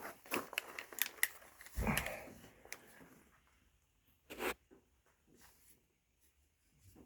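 Handling noises: scattered light clicks and rustling, a soft low thump about two seconds in, and one sharp click a little past the middle, then near quiet.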